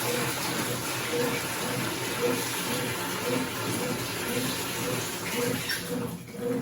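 Consul CWC08 8 kg washing machine with water running steadily into its tub. The rushing water eases off near the end.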